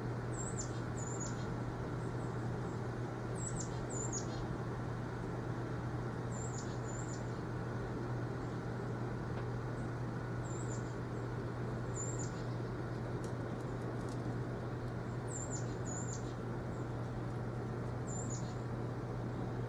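A small bird giving short, high chirps that fall in pitch, mostly in pairs, repeating every two to three seconds. Under them runs a steady low hum and rumble.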